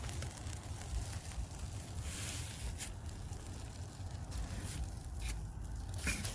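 French fries sizzling and crackling in hot grease in a RoadPro 12-volt portable stove, with scattered short crackly hisses over a steady low rumble.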